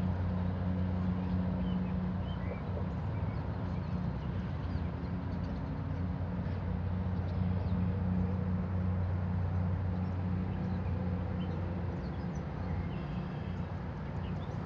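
A steady low engine hum, with faint bird chirps over it.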